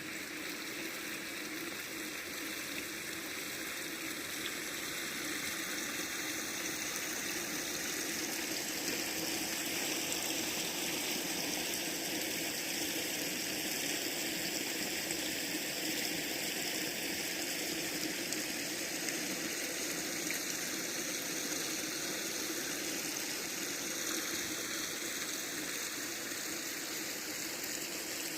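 Stream water flowing steadily, an even rushing with no break.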